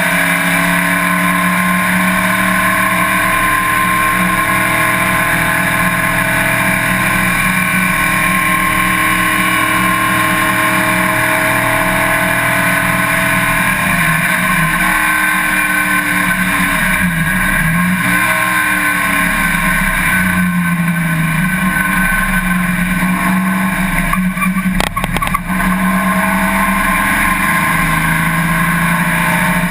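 Race car engine running continuously under load, its pitch dropping and climbing again several times around the middle as the car slows and accelerates, with a few brief clicks or knocks near the end.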